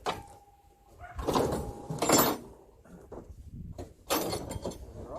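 Heavy metal parts of a railway signal being shifted, giving several clanks and scrapes with a ringing edge, the loudest about two seconds in and another near four seconds; a thin steady squeal sounds over the first two seconds.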